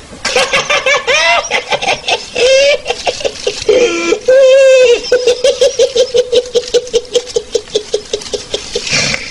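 High-pitched laughter that breaks into a long run of quick, even "ha-ha" pulses, about five a second, in the second half.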